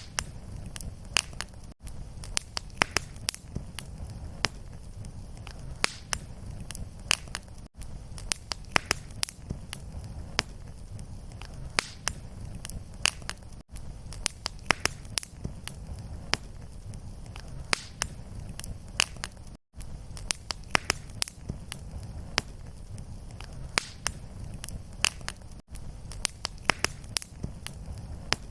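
Fireplace fire crackling and popping with many sharp, irregular pops over a steady low rumble. Short dropouts about every six seconds mark the seams of the looped recording.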